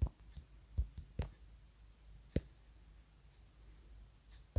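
A few faint, sharp taps spaced irregularly over several seconds: fingertip taps on a phone touchscreen while answering a quiz.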